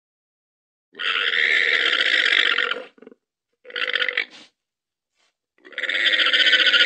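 A llama giving harsh, raspy calls: a long one of about two seconds, a short one, then another long one that starts near the end.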